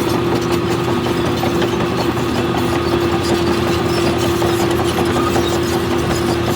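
Heavy earthmoving machine's diesel engine running steadily, with a constant whine over the engine rumble.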